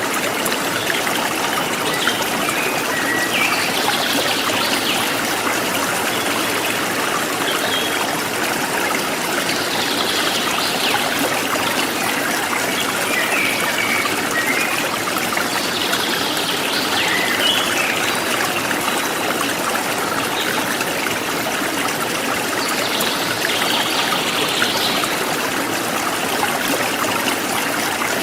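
A forest stream running steadily, with birds chirping now and then above the water.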